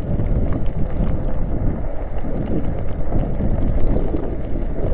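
Wind rushing over a chest-mounted camera's microphone while riding a fat-tire electric bike through snow, with the tyres rolling through the snow underneath. It makes a steady rough rumble with small scattered ticks.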